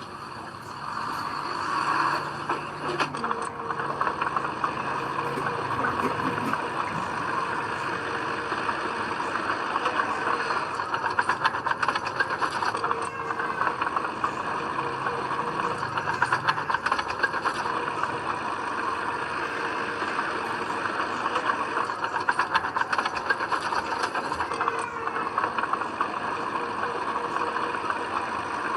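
Heavy diesel earthmoving machinery running steadily, with a continuous dense metallic clatter over the engine noise.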